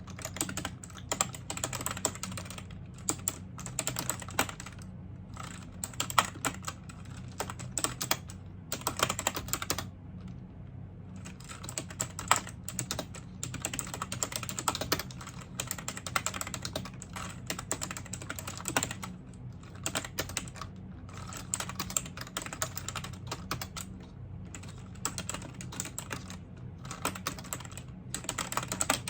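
Typing on a computer keyboard: quick runs of key clicks with short pauses between bursts, over a steady low hum.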